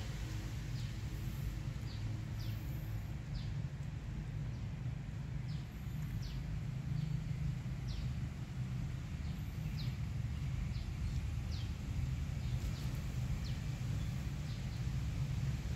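Small birds chirping repeatedly, short high chirps about once a second, over a steady low rumble of outdoor background noise.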